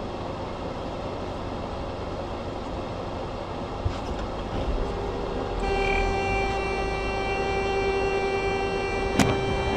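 Vehicle rumble with steady road noise, then a long, steady horn blast from a little past halfway that lasts about four seconds, with a sharp crack near the end.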